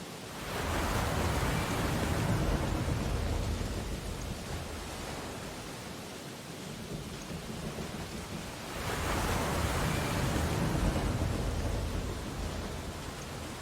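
Ocean waves breaking on a beach: two waves, one about half a second in and another near the middle, each surging up and then washing back out.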